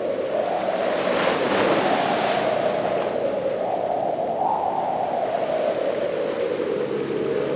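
Ocean waves washing in, swelling about a second in, over a constant moaning tone that slowly drifts up and down in pitch.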